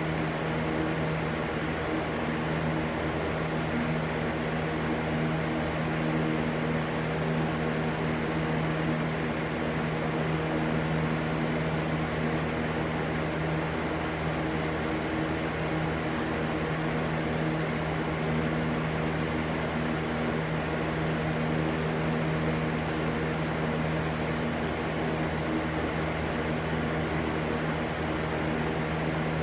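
Steady, unbroken rushing white noise with a constant low hum underneath, unchanging throughout.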